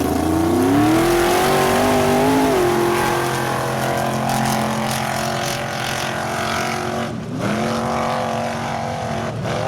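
An off-road vehicle's engine revving hard: it climbs in pitch in the first second and holds at high revs. About seven seconds in it drops sharply and climbs straight back, and it dips again near the end.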